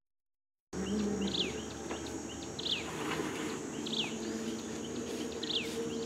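After a brief silence, a bird calls four times with short down-slurred whistled notes, about one every second and a half, over a steady high insect drone and a low steady hum.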